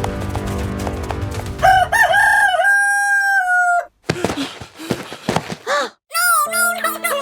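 A rooster crows once, a long held call that starts about a second and a half in, followed by more short bending calls, over background music.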